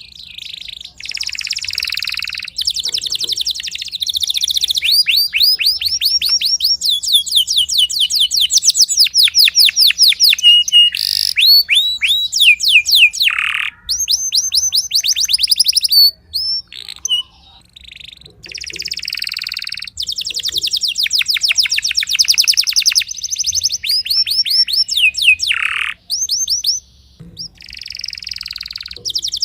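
Timbrado canary singing a long song of fast, evenly repeated high notes run together into trills, broken by a few short pauses.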